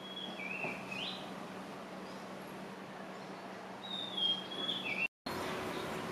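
A bird calls twice outdoors: short phrases of high stepped notes, one at the start and another about four seconds in, over a faint steady low hum. The sound drops out for a moment near the end.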